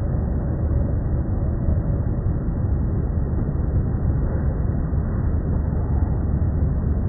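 Outdoor background sound slowed to one-eighth speed and boosted: a steady low rumbling hiss with nothing above a low pitch ceiling, and at most a faint drawn-out glide near the start, the trailing end of slowed-down bird calls.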